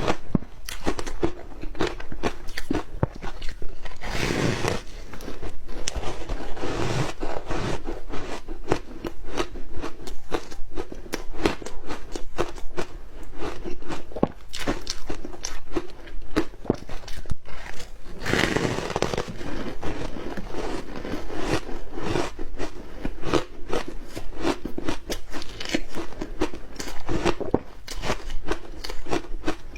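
Close-up crunching and chewing of matcha ice: a continuous run of sharp cracks and crackles as the ice is bitten and ground between the teeth, with two louder, denser bouts about four and eighteen seconds in.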